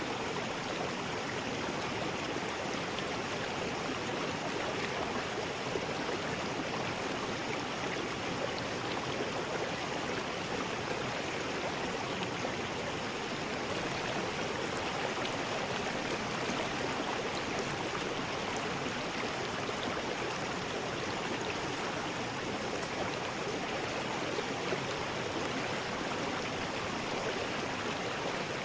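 River rapids: steady rushing and splashing of water.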